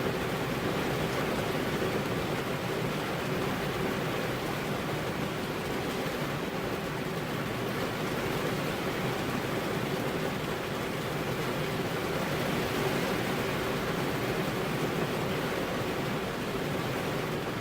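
Steady rain, an even wash of noise with no distinct drops or thunder.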